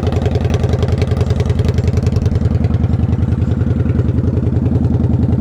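2007 Kawasaki Vulcan 900's liquid-cooled V-twin idling steadily with an even pulse, through an aftermarket exhaust.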